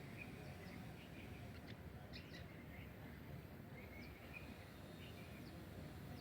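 Faint birds chirping, a few short calls scattered through, over a steady low background rumble.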